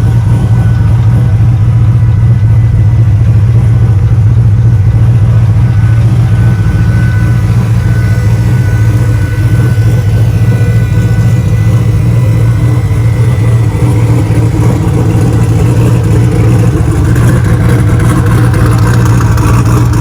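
Turbocharged V8 with a Summit stage 2 boost camshaft idling steadily on E85 about 850 rpm, warming up after a cold start.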